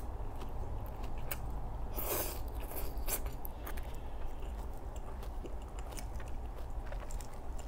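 A person chewing a mouthful of salad greens with salmon, close to the microphone: crisp crunches and wet smacking mouth clicks scattered throughout, a few louder ones about two and three seconds in.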